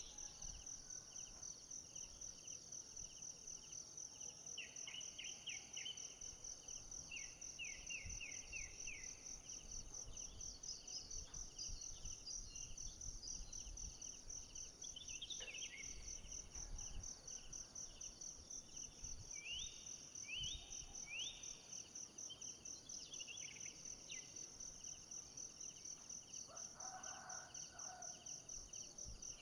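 Forest ambience: a steady, high, finely pulsing insect trill, with bird calls in short runs of quick falling notes scattered through it.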